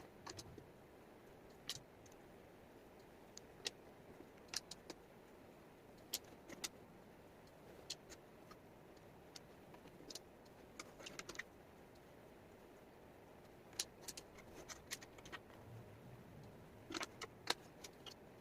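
Wooden jigsaw puzzle pieces clicking and tapping as they are picked up and set down, in scattered light clicks and small clusters over a faint steady hiss.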